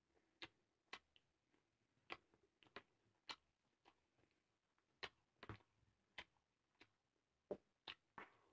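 Quiet eating sounds of chewing rice: irregular sharp, wet smacking clicks, roughly one or two a second.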